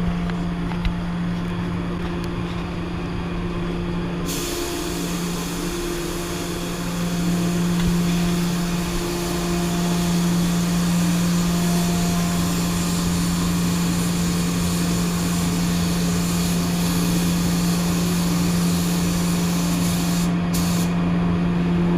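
HVLP paint spray gun hissing steadily as black sealer is sprayed, starting about four seconds in and breaking off briefly near the end, over a steady hum. The sound is muffled, as if heard through a waterproof camera case.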